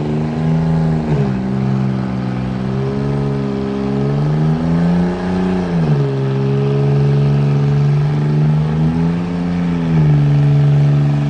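A vehicle engine held at raised revs, its pitch rising and falling slowly a few times as the throttle is blipped and eased.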